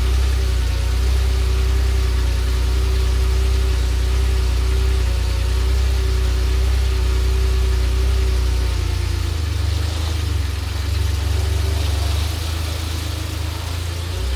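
1984 Ferrari 512BBi's 4.9-litre flat-twelve idling shortly after a cold start. About nine seconds in, the pitch steps down a little as the idle settles lower, and the sound gets slightly quieter.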